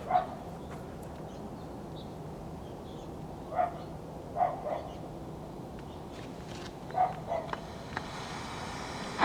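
Low steady hum from a switched-on tube radio, with a few brief faint sounds at about half a second, three and a half, four and a half, and seven seconds in.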